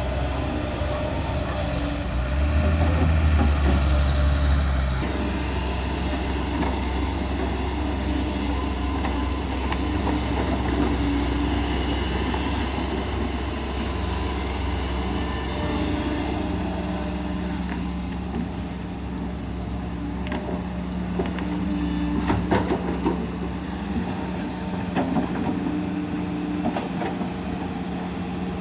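Kobelco SK140 hydraulic excavator working: its diesel engine runs steadily under load and surges louder for a couple of seconds a few seconds in. Several sharp knocks come in the last third.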